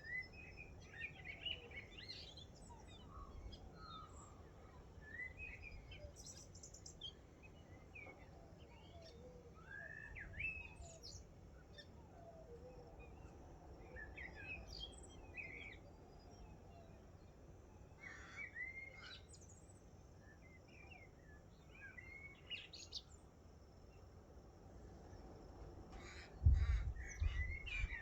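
Morning chorus of several wild birds: many short, overlapping chirps and rising whistled calls. A brief low rumble comes near the end.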